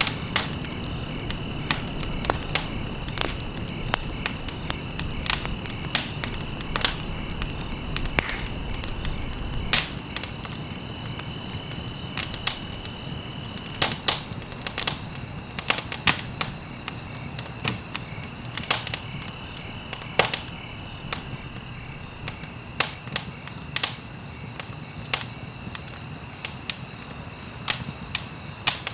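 Wood fire crackling, with irregular sharp pops and snaps over a low steady rush, and a continuous high cricket trill in the background.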